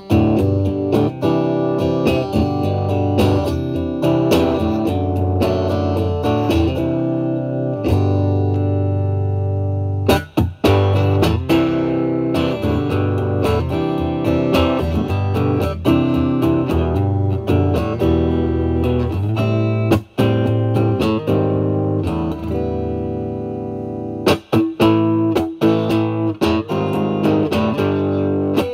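Stratocaster electric guitar played through a Vertex Steel String Clean Drive MK1 overdrive pedal with its gain at 3, into the clean channel of a Marshall Valvestate amp: a lightly driven, blues-style run of picked notes and chords, with a few short breaks in the playing.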